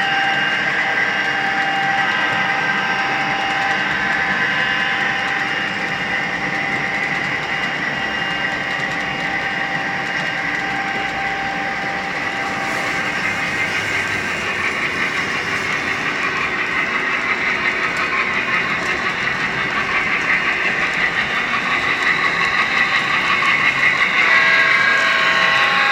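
HO-scale model train running on the layout: a steady train sound with held tones over a running noise, growing louder near the end.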